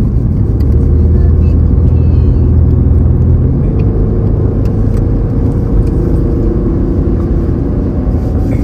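Car engine and road noise heard from inside the moving car's cabin: a steady low drone whose deepest hum shifts a little about a third of the way through.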